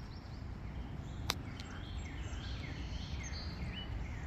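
Small birds chirping in a run of short, falling calls, several a second, over a steady low outdoor rumble, with one sharp click about a second in.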